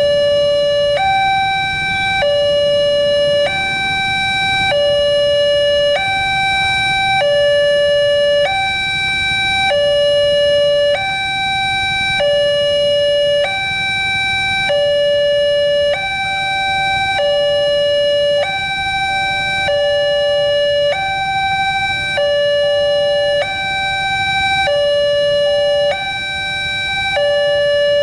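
Two-tone electronic warning alarm of an Indonesian railway level crossing, alternating steadily between a lower and a higher tone roughly every second, signalling that a train is approaching and the crossing is closed. A fainter low rumble runs underneath.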